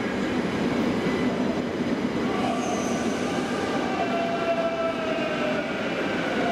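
Electric multiple unit pulling into a station platform and slowing, a steady rumble of wheels and running gear. From about two seconds in, whining tones slowly fall in pitch as it decelerates, with a brief high squeal near the three-second mark.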